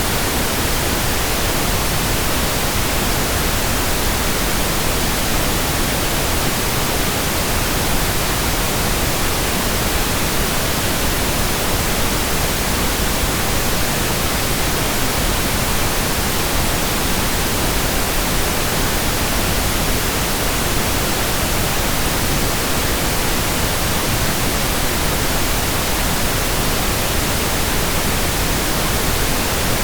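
Steady, unbroken pink noise: an even hiss spread across all pitches, with no change in level.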